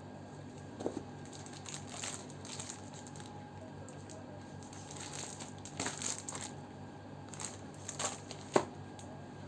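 Packaging and books being handled: scattered crinkling and rustling with a few light knocks, the sharpest knock about a second before the end.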